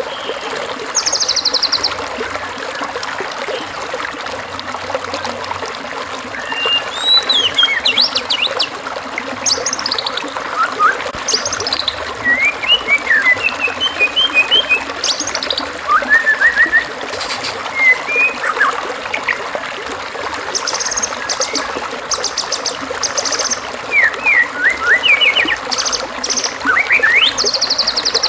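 Varied birdsong: assorted whistles, chirps and short buzzy trills from several birds, over steady trickling water. This is a masteran recording, a mix of bird songs played to white-rumped shamas for them to copy.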